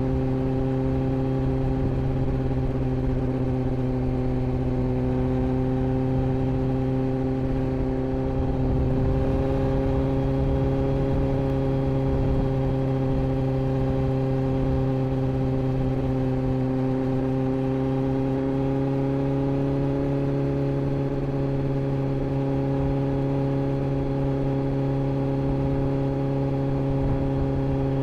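Inline-four sport motorcycle engine running at a steady, nearly constant speed, its pitch drifting slightly up and down, with wind rumble on the microphone.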